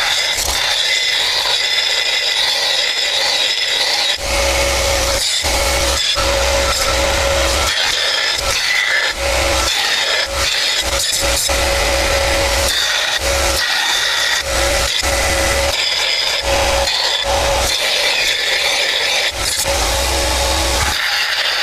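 A power tool running steadily while it grinds or sands, with scraping as it works against the material and a low rumble that comes and goes every second or so.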